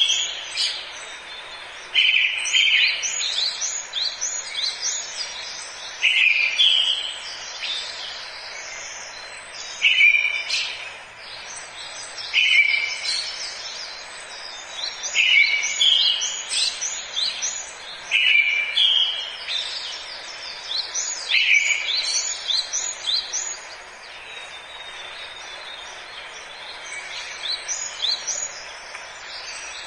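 Forest birdsong: a songbird repeats a short phrase every two to three seconds, each a low note followed by a run of quick higher notes, over a steady background hiss. The phrases fade out near the end, leaving fainter chirps.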